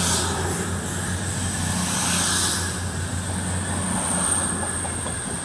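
CrossCountry diesel train pulling out of the station, its underfloor engines giving a steady low drone with a rushing hiss that swells twice.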